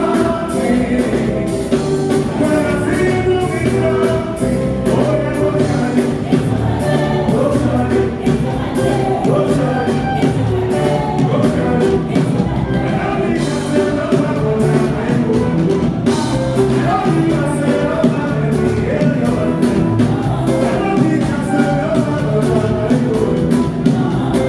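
Live band music with a steady drum beat, and voices singing over it.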